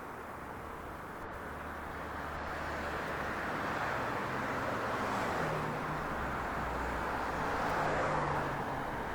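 Steady outdoor rushing hum of distant vehicle or engine noise, swelling gently through the middle and easing slightly near the end.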